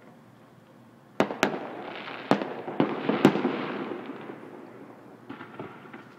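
Fireworks display: after about a second of quiet, five sharp bangs in quick succession over about two seconds, over a continuous crackle that dies away over the next two seconds, then a few faint pops.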